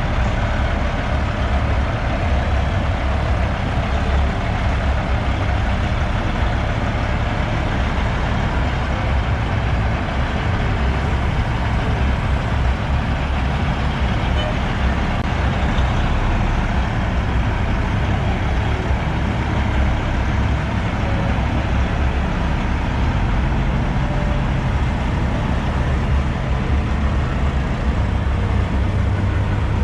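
Semi-truck diesel engines running as big rigs drive slowly past, a steady low-pitched drone with no pauses.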